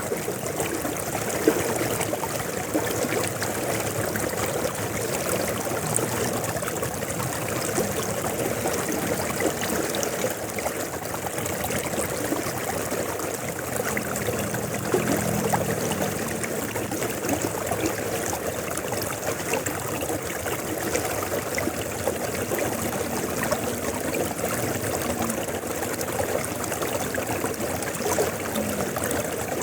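A river flowing steadily, a continuous even rush of water.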